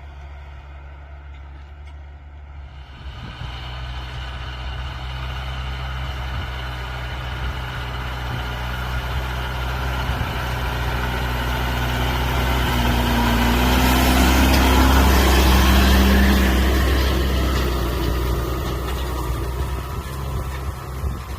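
Large farm tractor's diesel engine running under load, pulling a high-speed moldboard plow with trailing crushing rollers through paddy soil. It grows steadily louder, is loudest about two-thirds of the way through, then eases off a little, as if passing close by.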